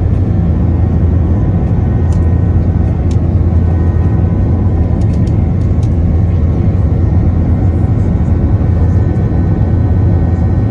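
Steady hum of the Airbus A321's engines and airflow heard from inside the passenger cabin, deep and unchanging, with a few faint clicks.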